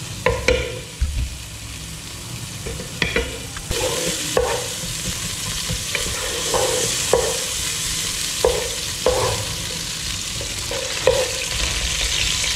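Chopped ginger and garlic sizzling in hot oil in a pot, stirred with a wooden spatula that scrapes and knocks against the pot repeatedly. The sizzle grows louder about four seconds in.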